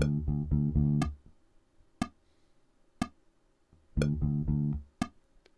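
Electric bass guitar playing a short phrase of plucked notes for about a second over a steady click about once a second. The bass stops for three beats while the clicks go on, then plays the phrase again about four seconds in.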